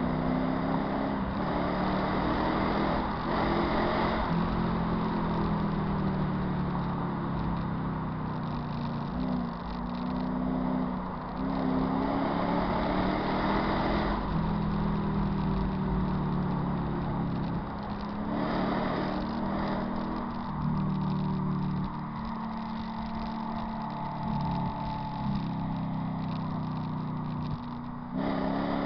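Mercedes W211 E55 AMG's supercharged V8 and its exhaust running while driving, the engine pitch climbing several times and dropping back as revs rise and the gears change.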